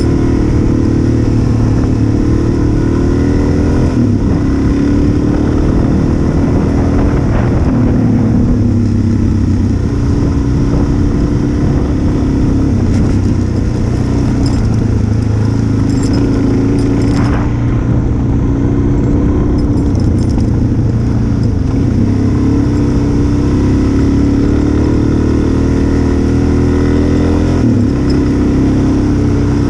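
Dual-sport motorcycle engine heard from on the bike, running steadily at cruising speed, its pitch rising and falling slightly with the throttle.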